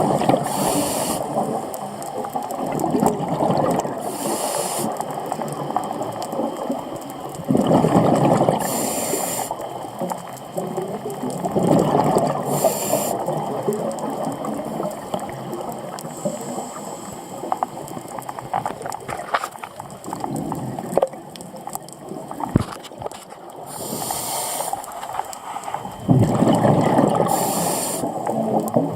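Scuba diver's regulator breathing recorded underwater: a short hissing inhalation every few seconds, alternating with longer rushes of exhaled bubbles.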